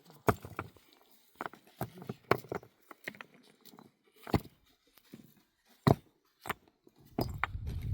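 A series of sharp knocks or clicks at irregular intervals, about eight in all, with a low rough rumble starting near the end.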